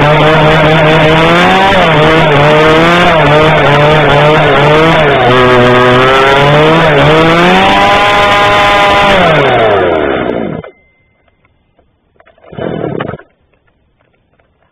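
Small single-cylinder engine on a cold start, running with its speed rising and falling. About nine seconds in the revs drop and it dies away, shutting off about ten and a half seconds in. A brief knock or rustle follows about two seconds later.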